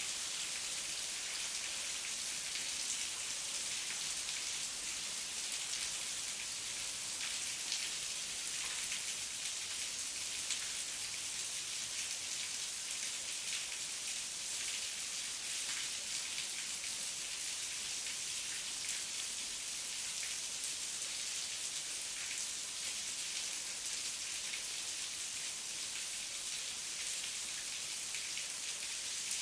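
Steady heavy rain falling, an even hiss of countless drops with fine individual drop ticks standing out.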